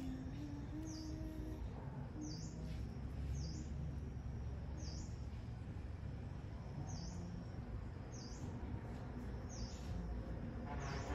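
A small bird repeating a short, high chirp about once every second or so, over a steady low background rumble.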